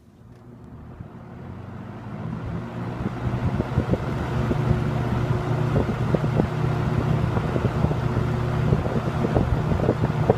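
1977 Kmart Lakewood K-223 20-inch box fan with a McMillan motor, switched on high: the blades spin up over the first few seconds, then it runs at a steady whir with a low motor hum and air noise.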